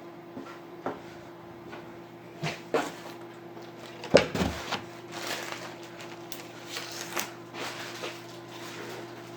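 Microwave oven running with a steady hum, under scattered knocks and clatters of kitchen handling; the loudest knock comes about four seconds in, followed by a few seconds of rustling and clinking.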